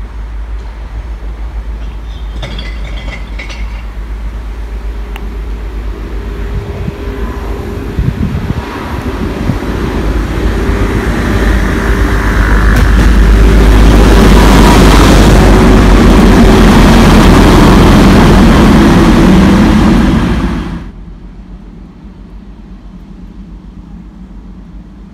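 Class 185 diesel multiple unit passing along the platform: engine and wheel noise build up over several seconds and stay loud for about seven seconds. The sound drops away suddenly as the train clears, leaving quieter background.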